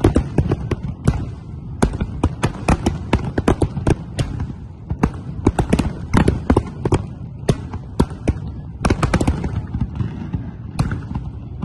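Fireworks display: a dense, irregular barrage of bangs from shells bursting overhead, several a second, over a low rumble.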